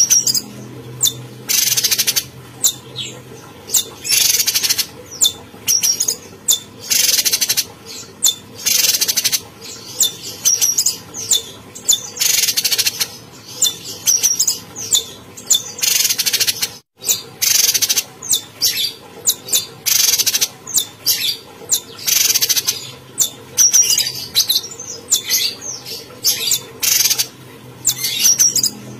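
Cucak cungkok songbird singing vigorously: a long run of harsh, rasping bursts at about one a second, mixed with short sharp chirps. A faint steady hum lies underneath, and the sound cuts out briefly about halfway through.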